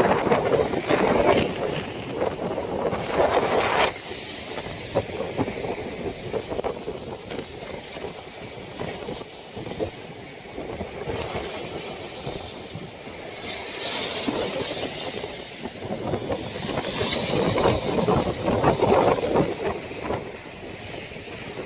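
Storm wind blowing hard in gusts, loudest at the start and again about three quarters of the way through.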